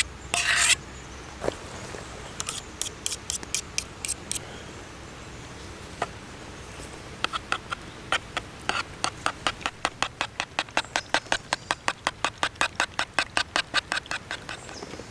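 A short loud scrape right at the start, then sharp clicks: a few scattered ones, and from about seven seconds in a steady run of about five clicks a second, like a utensil or tool working against a hard container.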